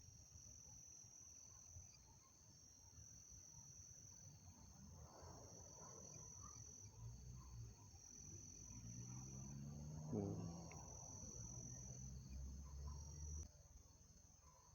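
Faint crickets trilling steadily in a continuous high-pitched chorus. A low rumble rises in the middle, peaks with a brief jolt, and cuts off suddenly near the end.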